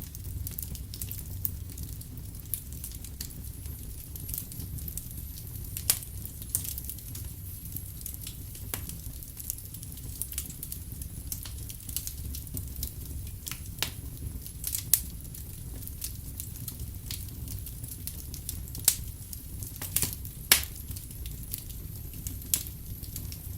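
Wood fire burning in a fireplace, crackling with irregular sharp pops over a low steady rumble, a few pops louder than the rest.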